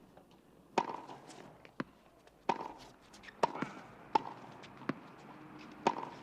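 Tennis ball being hit with rackets and bouncing on a court: a series of sharp pops, each with a short ringing ping, about one every second or less.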